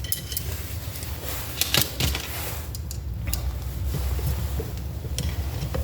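Tools and small metal parts being handled on a workbench: a few light clicks and knocks, the clearest near the start and about two seconds in, over a low steady rumble.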